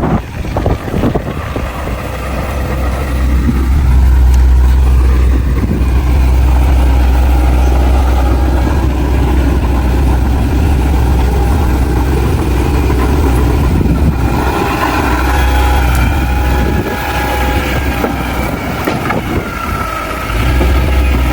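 Heavy diesel earthmoving machine running with a deep, steady engine rumble. It grows louder over the first few seconds, and higher whining tones join in about two-thirds of the way through.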